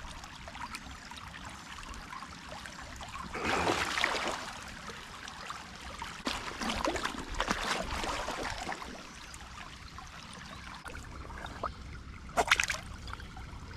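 Shallow creek water running, with splashing as a big fish struggles to swim through the shallows. The splashing swells about three to four seconds in, comes again in shorter bursts over the next few seconds, and once more briefly near the end.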